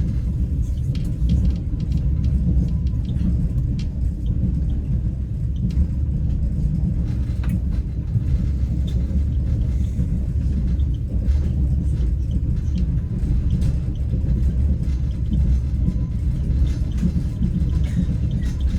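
Passenger train in motion heard from inside the carriage: a steady low rumble with faint scattered clicks.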